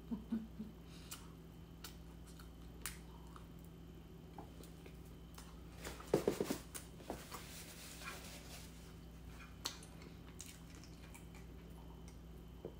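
A person chewing scone, with soft mouth sounds and scattered light clicks. About six seconds in there is a short cluster of sharp handling noises, the loudest sounds here.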